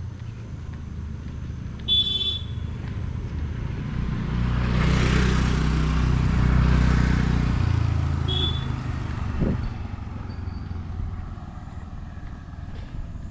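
A motor vehicle passing close by: its engine and road noise swell from about four seconds in, peak, and fade by about ten seconds. A short horn toot sounds about two seconds in, and another just as the vehicle goes by.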